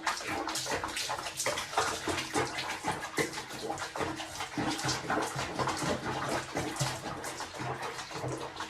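Water splashing and sloshing in quick, irregular bursts, as in a bath.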